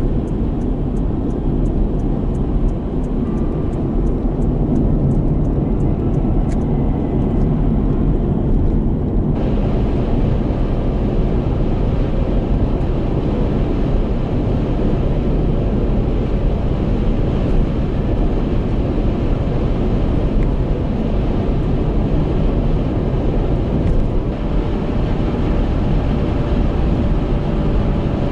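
Steady, loud rumble of a vehicle in motion, with low road and engine noise and no distinct events.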